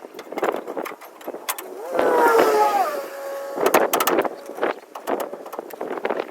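Metal knocks and clanks from work on the spare-tire rod pin under a pickup, with a quick run of sharp strikes near the middle and a short metallic squeal, falling in pitch, just before it.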